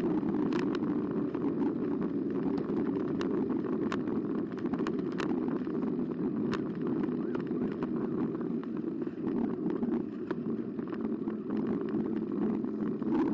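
Bicycle rolling along a rough path: uneven tyre and wind rush with scattered clicks and rattles from the frame. The steady whine of the electric motor, heard just before and after, is absent here.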